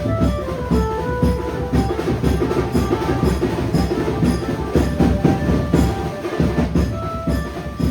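Banjo band music: a melody in short held notes over dense, fast drumming.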